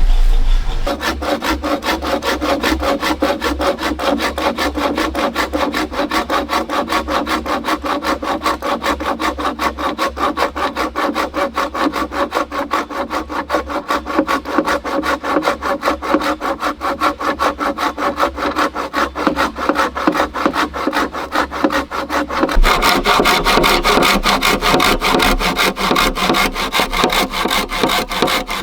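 Hand saw cutting through a bamboo pole in quick, even back-and-forth strokes. The rasp turns louder and sharper about two-thirds of the way through.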